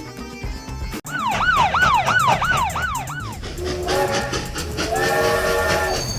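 Sound-effect police siren wailing up and down quickly, about six cycles, then two held horn blasts of several notes at once.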